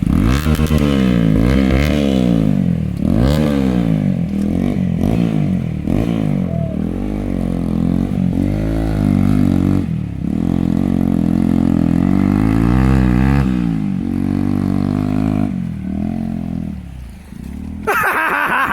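Motorcycle engine running under way, its pitch rising and falling again and again as the rider opens and closes the throttle. A short higher-pitched burst comes near the end.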